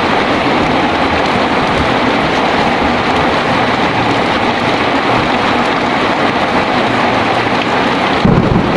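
Heavy rain pouring steadily. Near the end, a low rumble of thunder begins.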